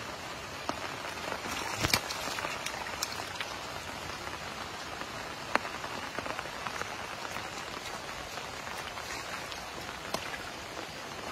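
Steady rain falling on shallow floodwater, a continuous patter, with a few brief sharp splashes from wading and grabbing in the water, the loudest about two seconds in.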